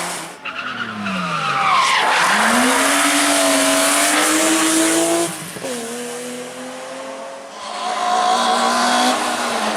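Rally car engine at full throttle: the pitch falls early on, climbs steadily as the car accelerates, drops sharply with a gear change or lift about five seconds in, then climbs again near the end. A loud hiss of tyre noise runs under it.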